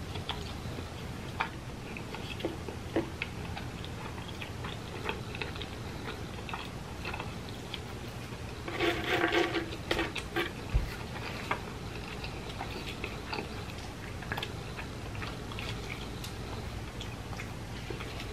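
Close-miked mouth sounds of chewing breaded chicken, with scattered small clicks and smacks. About nine seconds in there is a brief, louder pitched sound lasting about a second.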